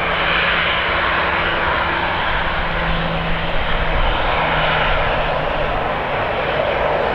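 Jet airliner engines running: a loud, steady rush of engine noise with a low hum underneath that fades out about five seconds in.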